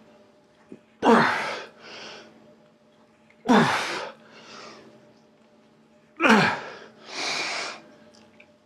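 A person straining through reps of a cable pull-down, breathing out hard with a voiced, falling grunt on each pull and drawing a quieter breath after it, three times about two and a half seconds apart.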